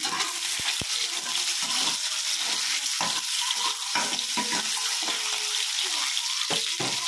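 Peeled boiled eggs sizzling in hot oil in a metal kadai, with repeated scrapes and light knocks of a metal turner against the pan as the eggs are turned.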